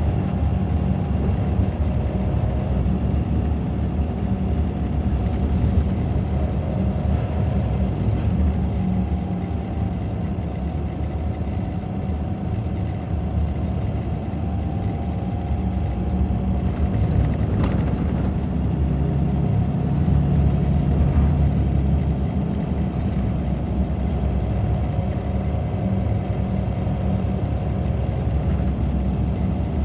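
Scania K94 bus's DC9 five-cylinder diesel engine running steadily, with a faint whine that drifts slightly up and down in pitch. The engine gets louder for a few seconds about two-thirds of the way through.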